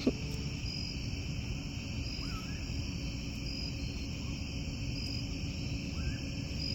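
Night insects chirping: a steady high drone with a short high chirp repeating about once a second. Twice, about two seconds in and near the end, a faint short rising call from an unseen animal.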